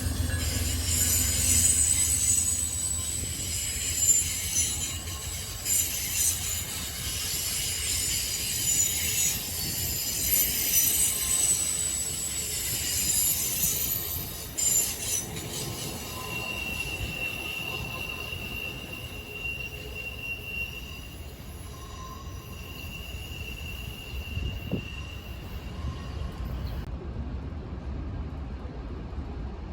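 Train rolling by with its steel wheels squealing on the rails over a low rumble. Several high squeals come first, then the squeal settles into one steady tone for about ten seconds before fading.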